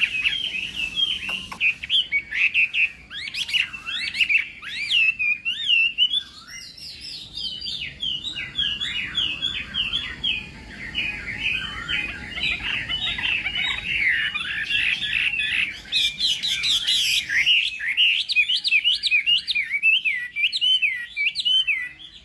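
Chinese hwamei singing a long, rapid, varied song of rising and falling whistled notes, cutting off near the end.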